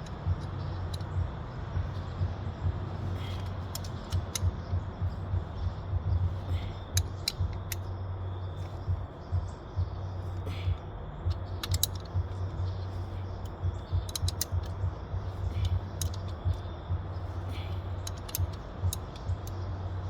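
Hand tools turning bolts: irregular sharp metallic clicks of a ratchet wrench and tool clinks, over a steady low hum.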